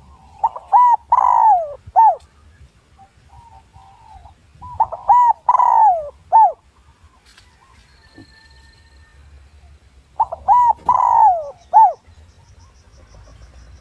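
Spotted dove (chim cu gáy) cooing: three loud phrases of a few short notes and one longer, falling coo, about five seconds apart. It is a decoy male's territorial call, used to lure wild males in to fight.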